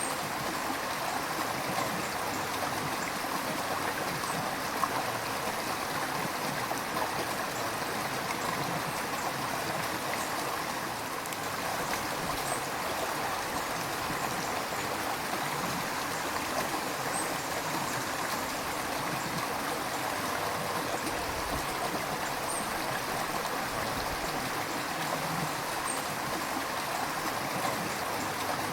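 A river flowing over rocks: a steady rush of water with gurgling.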